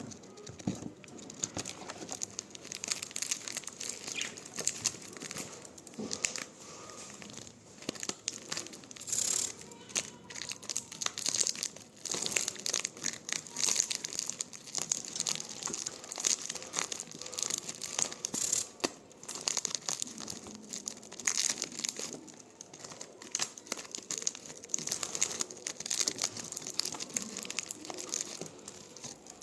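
Irregular splashing and spattering of water as an Indian ringneck parrot bathes, coming in uneven spurts throughout.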